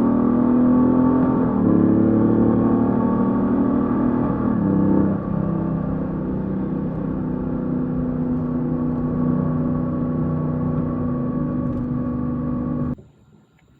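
2019 Honda Gold Wing DCT's flat-six engine running on the road, its pitch rising and falling over the first few seconds and then holding steady. The sound cuts off suddenly near the end.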